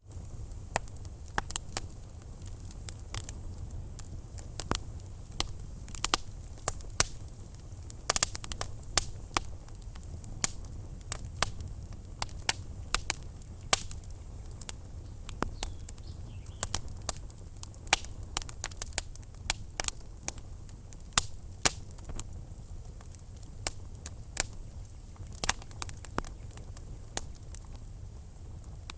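Fireplace fire crackling: a steady low rumble and soft hiss of burning wood with frequent irregular sharp pops and snaps, some much louder than others. It cuts in abruptly from silence at the start.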